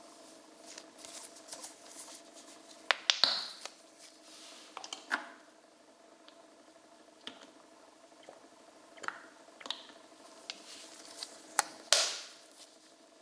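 Scattered clicks and knocks of small objects being handled, with the loudest ones about three seconds in and near the end, over a faint steady hum.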